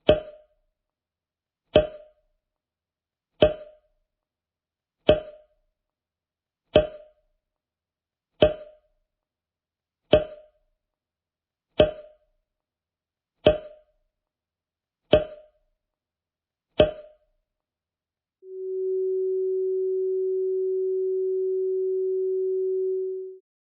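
Synthesized sound effects: eleven short pitched blips, evenly spaced about 1.7 seconds apart, each dying away quickly. After a brief silence comes a steady pure tone, which fades in, holds for about five seconds, and fades out.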